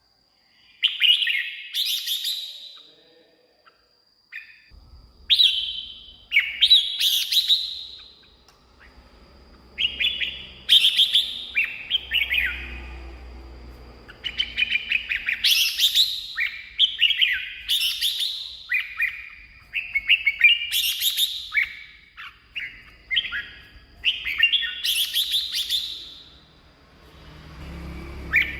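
Red-whiskered bulbul singing: loud phrases of quick, sliding whistled notes, each lasting a second or two and repeated every few seconds with short pauses between. A faint steady high tone runs underneath.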